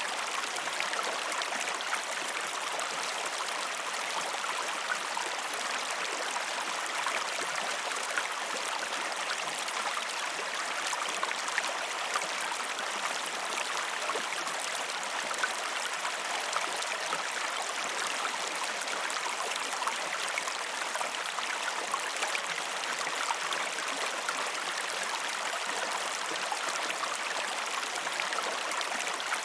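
River water flowing over rocks: a steady rushing, flecked with many small splashes and trickles.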